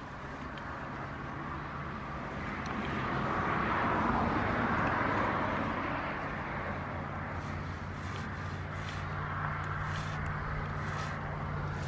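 A passing motor vehicle: its noise rises to a peak about four seconds in and then fades away. A steady low engine hum and a few faint clicks follow in the second half.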